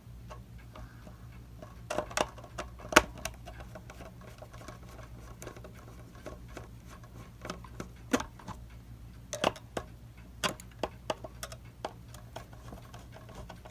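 Irregular small clicks and metal taps of a screwdriver loosening the screws that hold a Seth Thomas 89C clock movement in its case, the sharpest tap about three seconds in, over a low steady hum.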